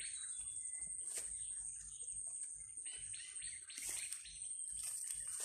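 Birds chirping in short, repeated calls over a steady high-pitched whine.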